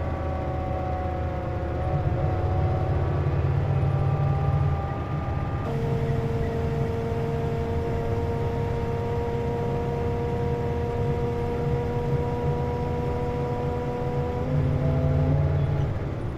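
Inside a Nissan Diesel KC-JP250NTN city bus under way: a low engine rumble with steady tones over it, the abnormal noise this bus makes with its air conditioning running. The tones jump to a new pitch about six seconds in and shift again near the end.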